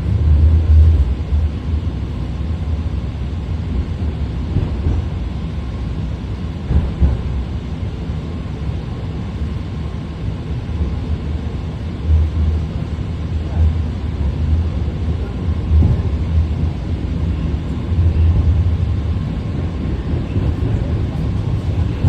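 BART Fleet of the Future train running between stations, heard from on board: a steady low rumble of wheels on rail, swelling and easing in loudness a few times.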